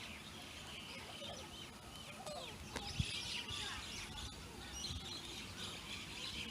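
Birds chirping, a steady scatter of short, quick calls overlapping one another, with a single thump about three seconds in.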